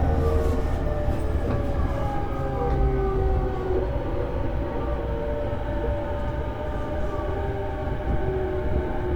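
Onboard running sound of an E233-series electric train: several motor tones fall slowly and steadily in pitch over a continuous low rumble of wheels on rail, as the train slows for its next station.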